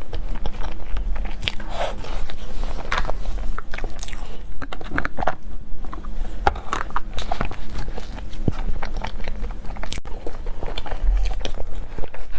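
Close-miked mouth sounds of a person biting and chewing dessert, with many small irregular clicks and smacks.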